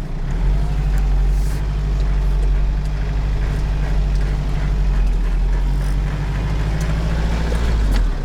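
Hyundai Porter light truck's engine running steadily at an even, low pitch.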